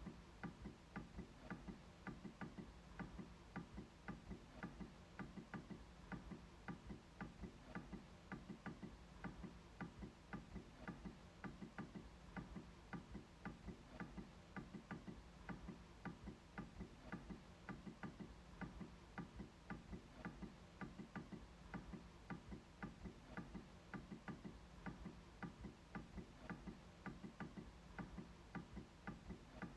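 MacBook trackpad being clicked over and over, faint sharp clicks in a steady rhythm of about three a second.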